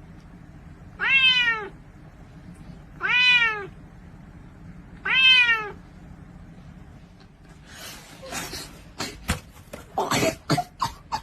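A domestic cat meowing three times, each meow about half a second long and sliding down in pitch, about two seconds apart. From about eight seconds in, a scatter of knocks and rustling follows.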